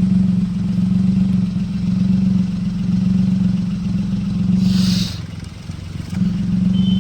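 Car engine idling, heard at the exhaust silencer as a steady low hum; this is the exhaust flow that is checked for the stop-start puffs of a misfire. About five seconds in there is a brief hiss, and the hum dips for about a second before it comes back.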